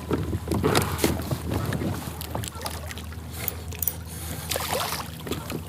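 Irregular knocks, clicks and small splashes on and around a kayak as a hooked fish is reeled in and handled aboard, over a steady low hum.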